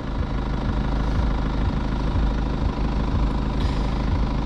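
BMW 520d's four-cylinder diesel engine idling steadily.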